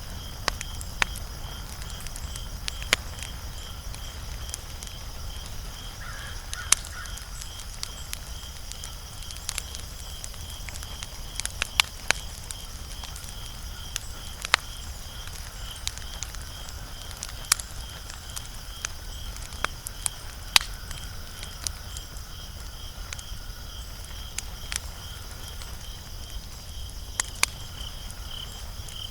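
Wood fire crackling, with irregular sharp pops every second or two over a low steady rumble. Crickets chirp steadily in a high pulsing trill throughout.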